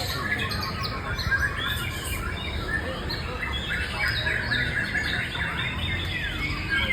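White-rumped shama (murai batu) singing a fast, continuous run of varied chirps and sliding whistles, over a steady low rumble.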